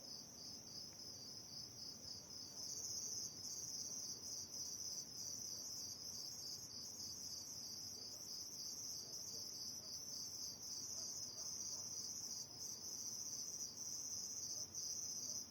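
Crickets chirring in a dense, steady, high-pitched trill; a second, higher trill joins about two and a half seconds in and the chorus gets louder.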